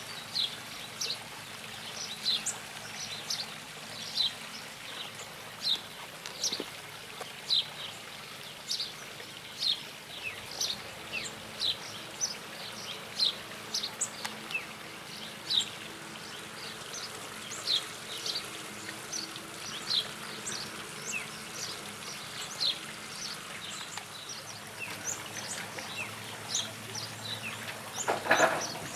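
Small birds chirping over and over, short high chirps about once a second, with a faint low hum underneath. A brief louder sound comes near the end.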